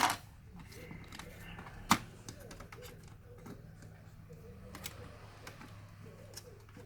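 A few sharp clicks and taps of small parts and a screwdriver during a laptop teardown, the loudest about two seconds in, over a low steady hum.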